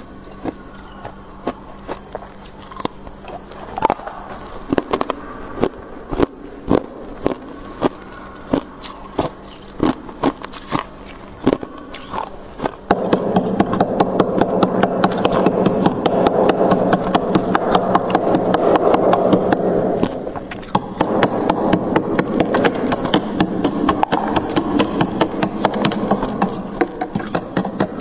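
Freezer frost ice crunching: separate sharp crackles about once or twice a second, then from about halfway through a louder, dense, rapid crackling over a low steady hum.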